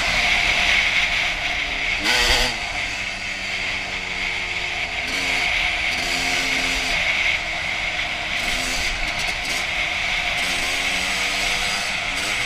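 2001 Honda CR250's single-cylinder two-stroke engine running under riding, its revs rising and falling as the throttle is worked, with one sharp knock about two seconds in.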